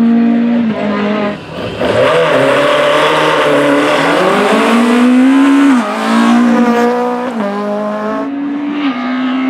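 Renault Clio RS hillclimb car's four-cylinder engine at full throttle. The revs climb and then fall sharply at each upshift, about four times.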